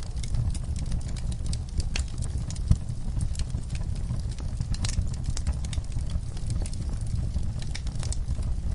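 Wood fire burning in a fireplace: a steady low rumble of flames with irregular sharp crackles and snaps, and one louder pop a little under three seconds in.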